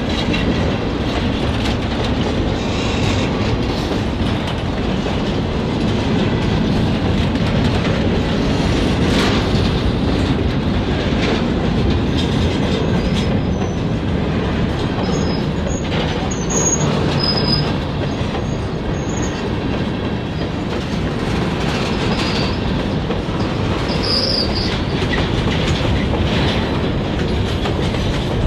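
Freight cars rolling past close by: a steady rumble of steel wheels on rail with clickety-clack over the rail joints. Brief high wheel squeals come in around the middle and again about three-quarters through.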